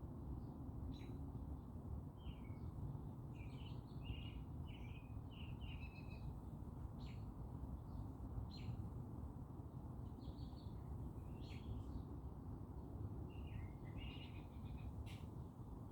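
Small birds chirping and twittering in short, quick calls throughout, with a few sharp chip notes, over a steady low rumble of background noise.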